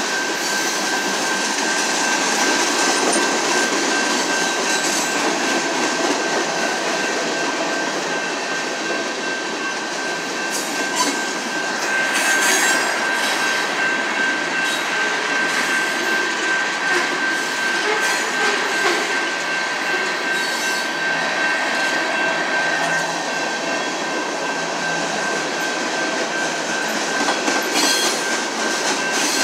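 Freight cars (covered hoppers and tank cars) rolling steadily through a grade crossing, with a continuous high-pitched squeal from the wheels. Now and then the wheels clack over the rail joints.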